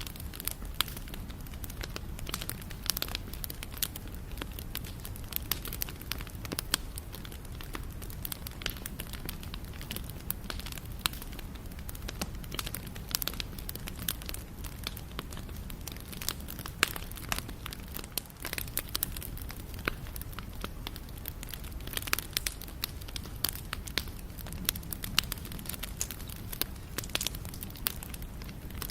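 Wood fire burning steadily, crackling and popping with a low rumble beneath.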